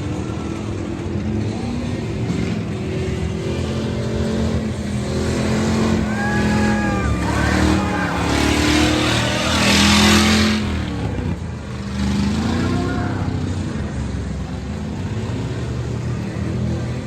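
Monster truck engines revving, their pitch rising and falling over a steady low rumble, loudest about ten seconds in.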